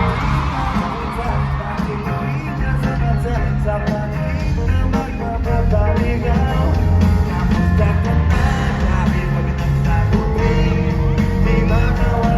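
Live band music with singing over a strong, steady bass.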